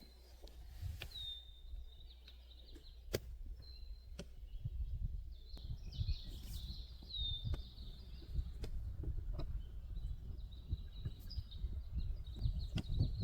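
Small birds calling: high chirps and short trills, several ending in a note that curls down and levels off. Scattered sharp clicks and a low rumble that grows toward the end run underneath.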